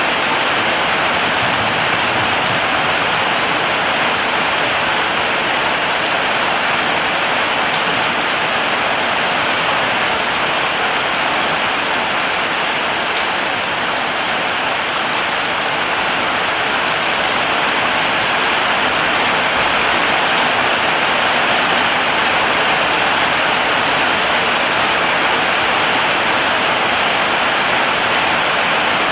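Heavy rain falling steadily: a dense, even hiss of drops with no change throughout.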